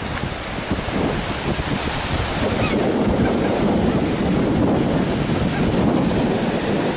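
Wind buffeting the microphone over the steady wash of surf breaking on a beach, growing a little louder about halfway through.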